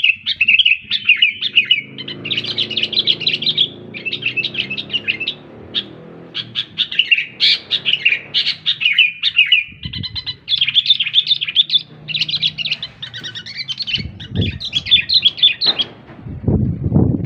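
Sooty-headed bulbul (kutilang) singing non-stop, a fast run of chirping notes with short breaks. Under it there is a faint low hum for the first half, and a few low thuds near the end.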